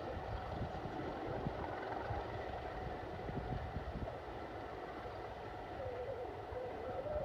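Heritage railway locomotive running with a steady low rumble, a faint wavering tone rising and falling over it in the last couple of seconds.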